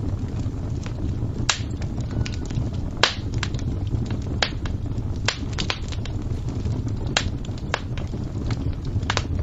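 Fire crackling: irregular sharp pops and snaps, a few louder than the rest, over a steady low rumble.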